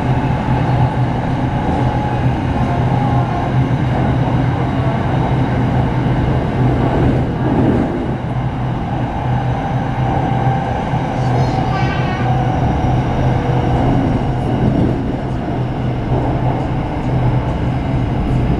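Steady running noise of an electric commuter train heard from inside the carriage: a constant low hum and rumble of the wheels on the rails and the drive, with a faint whine. A brief high-pitched sound comes about twelve seconds in.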